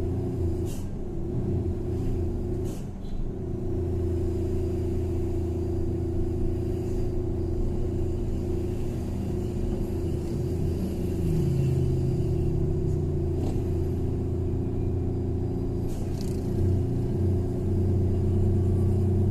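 Truck engine running steadily on the move, heard from inside the cab as a continuous low drone, with a few faint clicks and rattles.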